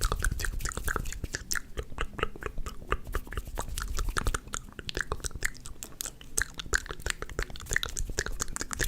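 ASMR mouth sounds: a fast, irregular run of wet clicks and smacks made close to the microphone.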